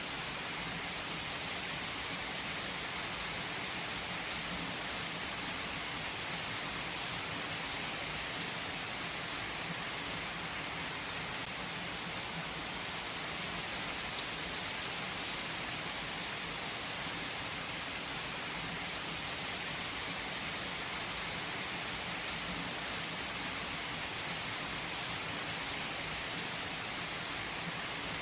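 Heavy rain falling steadily on trees, a dense even hiss with scattered drops ticking.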